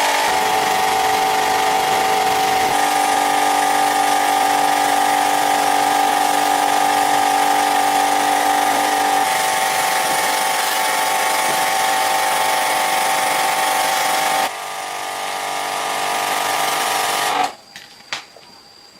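A power tool running with a steady high whine, its note shifting abruptly a few times, then cutting off sharply near the end, after which only a few light clicks are heard.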